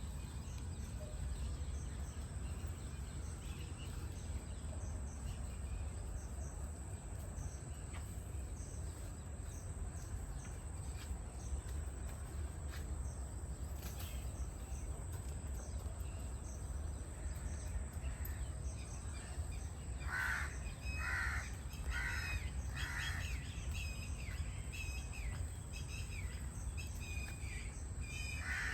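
Forest ambience: a steady low rumble of wind with scattered faint bird chirps. About twenty seconds in, a bird gives a run of about five loud repeated calls, and calls twice more near the end.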